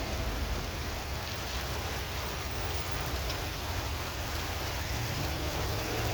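Heavy thunderstorm rain falling steadily, an even hiss of rain on surfaces. Near the end a passing vehicle's low hum begins to come in.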